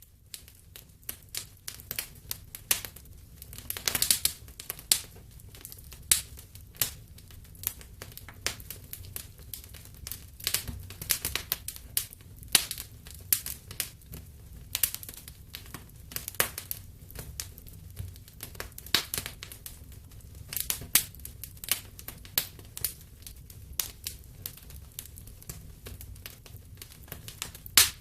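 Wood fire in a fireplace crackling, with irregular sharp pops over a low steady rumble of the flames; a cluster of louder pops comes about four seconds in.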